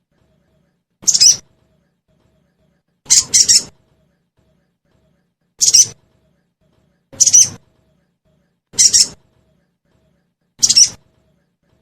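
Sogon (crested jay) calls from a lure recording: short, harsh, high chirps about every two seconds, one a quick double, with silence between.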